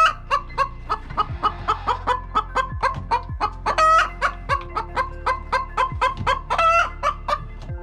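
Chickens clucking, many short calls in quick succession, with a louder drawn-out squawk near the start, another about four seconds in and another near the end.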